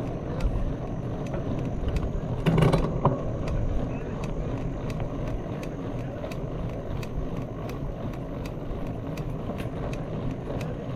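Mountain bike on the move: a steady low rumble of wind and tyres, with light sharp clicks throughout and a louder rattle about two and a half seconds in.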